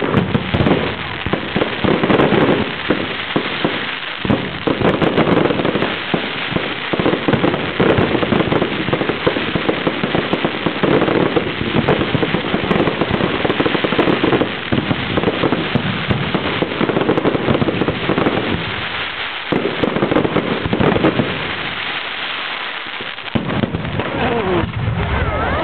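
A fireworks display going off in a dense, continuous barrage of bangs and crackling. It sounds dull and muffled because the recording was made at low quality.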